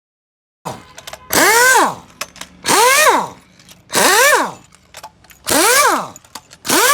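A power tool run in five short bursts about a second and a half apart. Each burst winds up and then down in pitch, with a hiss.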